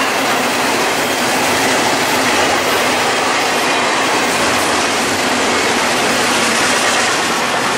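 A train passing close by: a steady, loud noise of wheels running on the rails.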